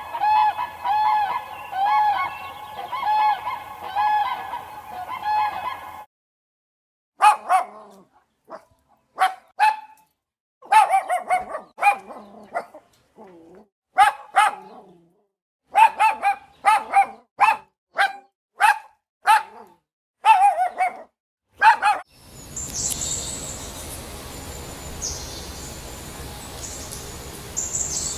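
A sequence of animal sounds. First comes honking, several calls a second, much like geese, which stops about six seconds in. After a short pause a dog barks in single barks and quick clusters until about 22 seconds. Then comes an outdoor hiss with a high, stop-start buzzing.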